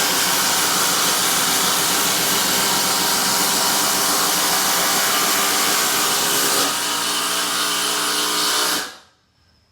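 Two 12-volt cordless impact drivers, a Milwaukee M12 and a DeWalt 12V Xtreme, hammering large fasteners at the same time. About six and a half seconds in, one tool stops and the sound thins to a single driver, which cuts off suddenly about nine seconds in.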